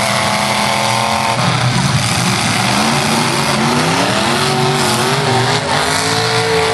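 Engines of full-size demolition derby cars revving hard, several at once, their pitch rising and falling as the cars accelerate and back off in the pit.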